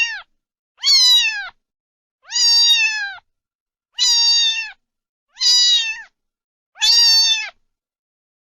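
Domestic cat meowing over and over: about six long meows, roughly one a second, each holding its pitch and then dropping off at the end, with silence between them.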